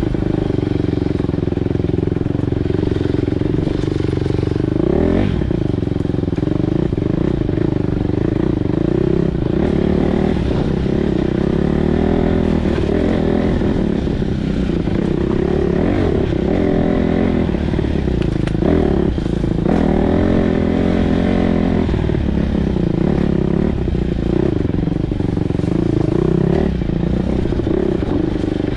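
Four-stroke single-cylinder dirt bike engine running on the trail, its pitch rising and falling again and again as the throttle opens and closes.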